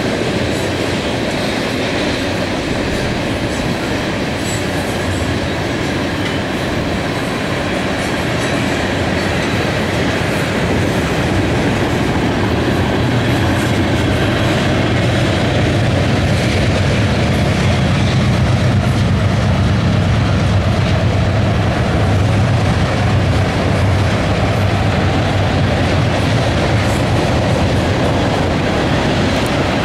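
Freight train of coal hopper cars rolling steadily past, steel wheels running on the rails, with a deeper rumble building about halfway through.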